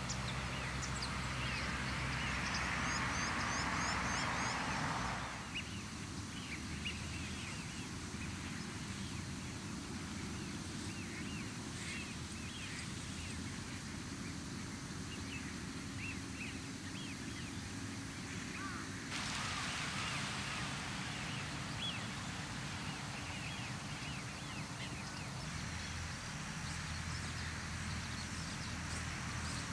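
Outdoor ambience with many short bird calls over a steady rushing noise that swells for the first few seconds, drops away, and returns about two-thirds of the way through.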